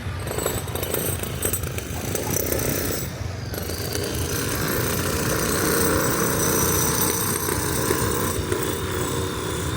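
Steady, loud mechanical rattle of working machinery, a little louder in the middle.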